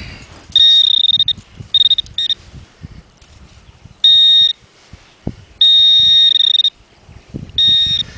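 Garrett Pro-Pointer AT handheld pinpointer sounding a steady high-pitched alert tone in six separate bursts, some brief and some about a second long, as it is passed over a metal target in the dug hole. Soft scuffs of sand being dug come between the bursts.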